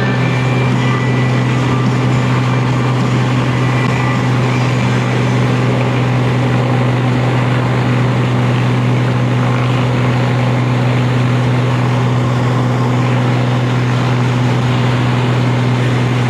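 Motorcycle cruising on the highway: a steady, unchanging engine drone with a rush of wind and road noise over it.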